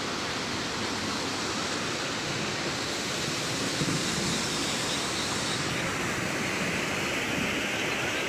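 Steady rushing of floodwater, an even hiss with no break; the hiss turns brighter and sharper about six seconds in.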